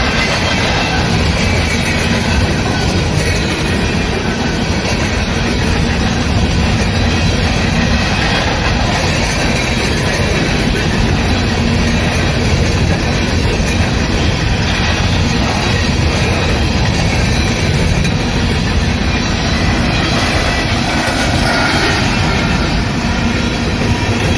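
A train's cars rolling past on the track: a steady, loud rumble with the wheels clattering over the rails.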